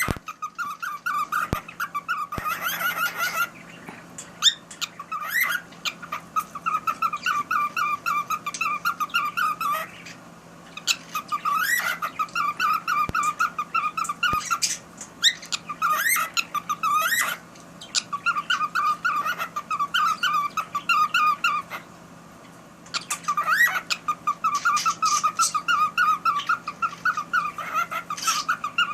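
Cockatiel singing: phrases of fast, repeated chattering notes, each lasting a few seconds, broken by a rising whistled note and short pauses. The song repeats about every six seconds.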